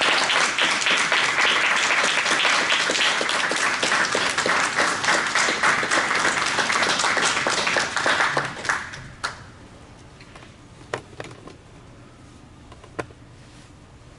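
Audience applauding, dense clapping that dies away about nine seconds in, followed by a few faint isolated clicks in a quiet room.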